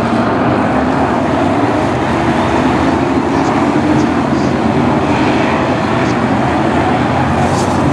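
Several BriSCA F1 stock cars' V8 engines running together on the track, a steady loud engine noise with no let-up.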